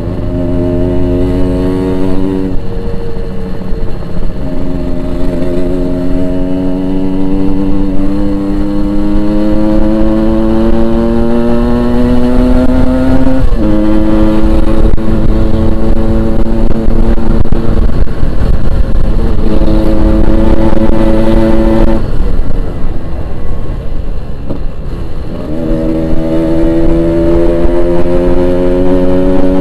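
Yamaha RX-King two-stroke single on its stock exhaust, ridden on the road. The engine note climbs slowly under throttle and drops sharply a few times as it shifts gear, over a heavy low rumble of wind on the microphone.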